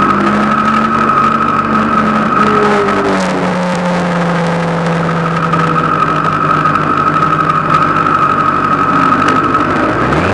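Kawasaki ZX-10R inline-four motorcycle engine in an MK Indy R kit car idling steadily, with a steady high whine over the engine note. Right at the end the revs start to rise as the car pulls away.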